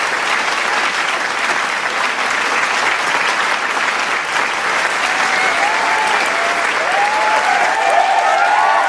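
Large crowd applauding with steady, dense clapping; cheers and shouts join in from about five seconds in and grow toward the end.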